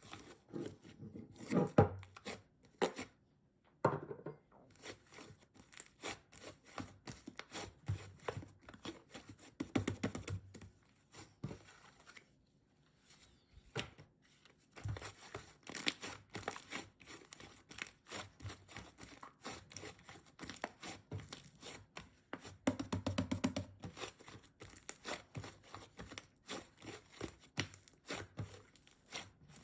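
Pink slime being worked by hand, making a dense run of quick sticky clicks and crackles, with louder bursts now and then and a short lull about halfway through.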